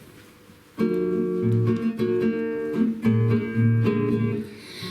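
Guitar playing the introduction to a song: after a quiet first second, chords struck about once a second and left ringing.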